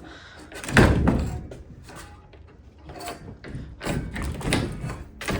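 A door being tried: the handle and latch rattle, and there are several heavy thuds against it, the loudest about a second in.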